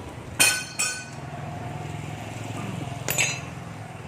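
Metal parts and tools clinking during pump reassembly: three sharp ringing clinks, two close together near the start and one about three seconds in, over a steady low hum.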